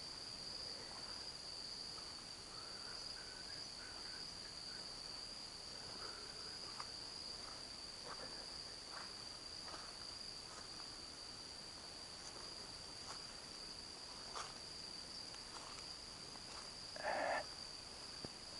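A chorus of insects makes a continuous, steady high-pitched trill. Faint scattered ticks sound over it, and a brief louder rustle-like noise comes about 17 seconds in.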